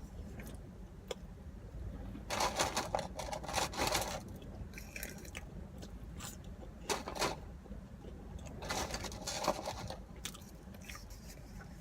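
Close-up chewing and biting of a cheeseburger and fries meal, with two denser spells of crunchy, crackly mouth sounds about two seconds in and again near nine seconds.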